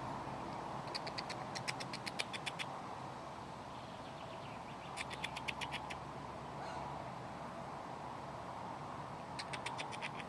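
A bird calling in three bouts of rapid, evenly spaced short high notes, about eight a second, over a steady background noise.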